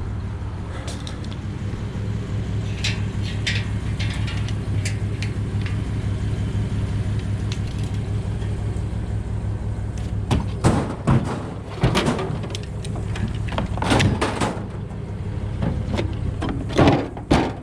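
A truck engine idles steadily while pieces of scrap metal are tossed into the truck bed. Light clicks come first, then from about ten seconds in a series of loud metal clanks and bangs.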